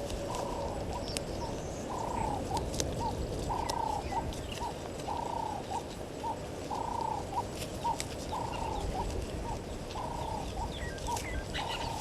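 A bird repeating a two-note call over and over, a longer note followed by a short one, at an even pace. Faint high chirps of smaller birds come in near the end, over a steady low background noise.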